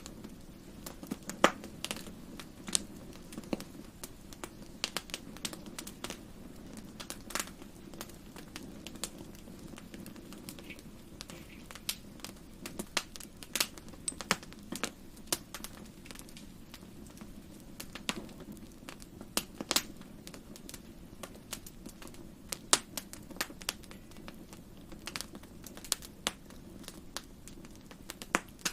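Wood fire burning in a fireplace: irregular crackles and sharp pops, a few of them loud, over a low steady rush of the flames.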